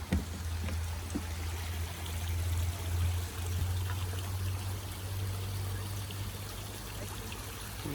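Small waterfall pouring over a mill dam: a steady rush of falling water with a deep, even rumble underneath. A single brief knock right at the start.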